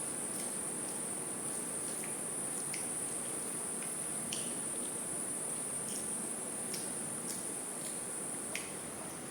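A person eating a rice meal, making soft, scattered mouth clicks and smacks about once a second. Under them is a steady high-pitched whine and a low even hiss.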